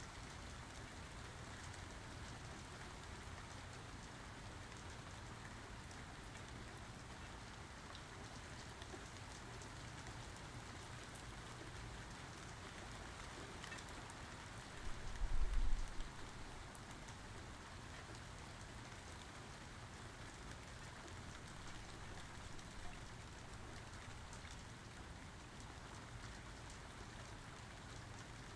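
Steady rain falling. About halfway through comes a brief, low rumble of thunder, the loudest thing heard.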